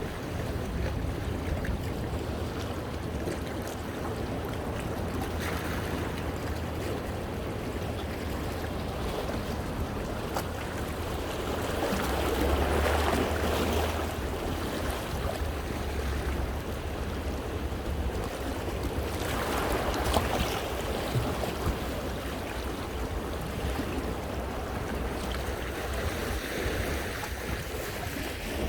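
Sea waves washing over and around shoreline rocks, a steady wash of water with two louder surges, one about twelve seconds in and one about twenty seconds in. A low rumble of wind on the microphone runs underneath.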